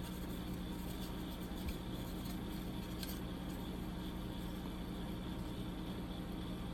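Steady low mechanical hum, like a small motor or fan running, with a few faint light clicks about two to three seconds in.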